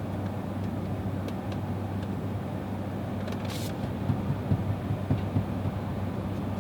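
Road and tyre noise inside the cabin of a moving Tesla Model X, an electric car with no engine sound, under a steady low hum. There is a short hiss about three and a half seconds in, and a few light bumps a little later.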